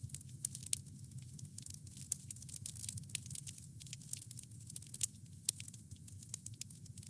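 Wood fire crackling steadily, with many small sharp pops and a low rumble of the flames beneath.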